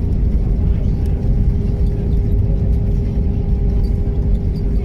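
Airbus A319 airliner noise during landing: a steady low rumble with a steady engine hum over it.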